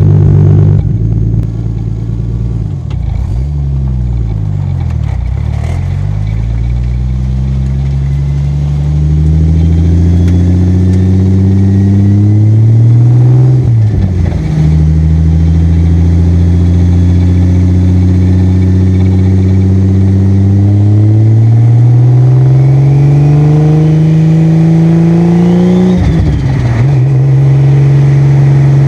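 Car engine running under load and climbing steadily in revs, with a gear change about fourteen seconds in and another near the end, each a sudden drop in pitch. Early on it backs off, and the pitch swings down and back up.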